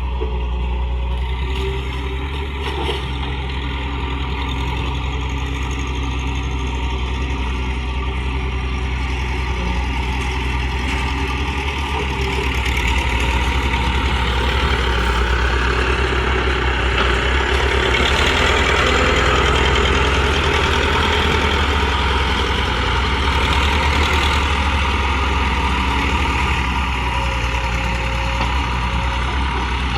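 RC excavator running with a steady, engine-like low drone. It grows louder and busier from about halfway in, then settles back near the end.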